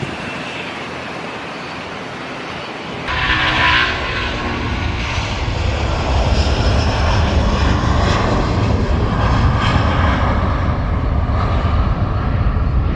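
Jet airliner engine noise: a steady hiss that suddenly grows louder about three seconds in, then holds as a loud, deep rumble with a rushing hiss above it.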